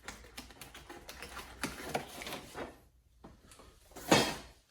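Shelf brackets and their packaging being handled, giving a run of irregular quick clicks and rattles, with one louder rustle or clunk a little after four seconds.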